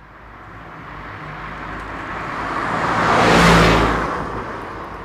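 A vehicle passing by: its noise grows steadily louder to a peak about three and a half seconds in, then fades away.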